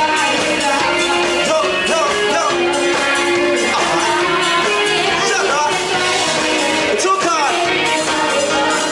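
A band playing a song, with a singer and guitar.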